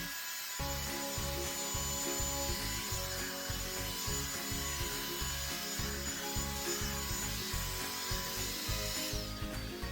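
Revlon One-Step hot-air brush hair dryer running, its bristles rubbing through hair, under background music. The dryer's hiss drops away about nine seconds in.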